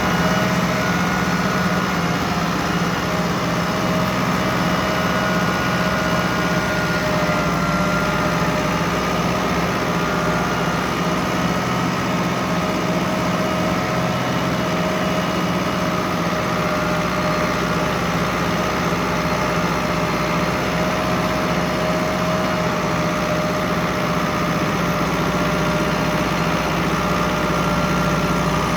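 Ford 6610 tractor's diesel engine running steadily at a constant speed, with a steady whine over the engine note.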